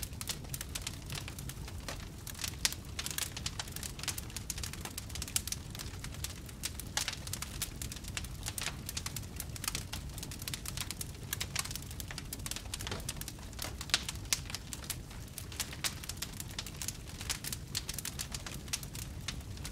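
Wood fire crackling in a fireplace: many small irregular pops and snaps over a steady low rumble, with the sharpest pops about three seconds in and about fourteen seconds in.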